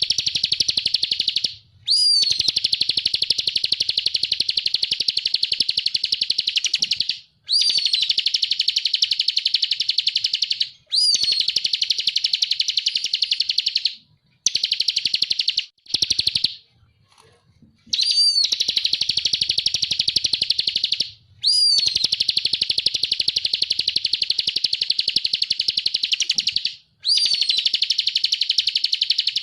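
Ciblek (prinia) singing its 'ngebren' song: long runs of very fast, even rattling trill, each opening with a short up-and-down note. There are about eight runs, separated by brief pauses and one longer pause about two-thirds of the way through.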